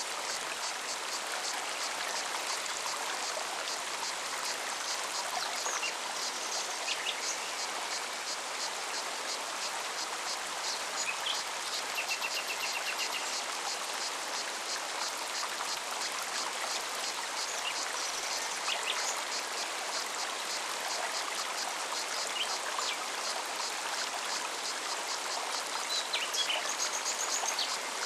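Mountain forest stream running steadily over stones, with a cicada's rapid, even, high pulsing throughout and scattered bird chirps, including a short trill about twelve seconds in.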